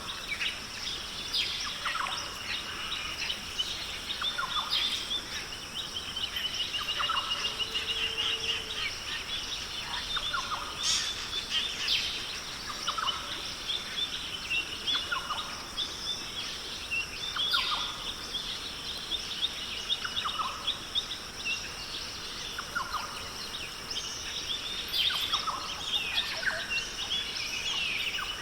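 Chorus of Australian rainforest birds: short calls, many sweeping downward, repeating every second or two, with rapid trills among them, over a steady high-pitched hiss.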